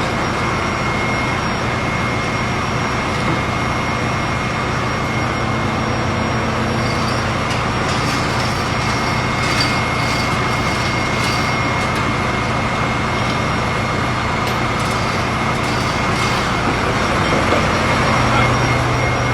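Steady drone of running machinery in a ship's engine room, with a low hum and a thin high whine held throughout. A few faint clicks come through about halfway.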